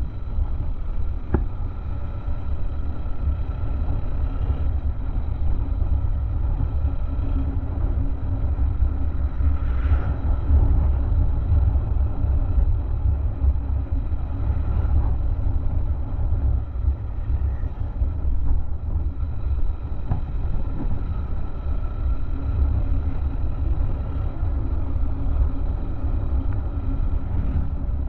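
Honda XR190 motorcycle engine running steadily on the move, under a heavy low rumble of wind on the camera's microphone.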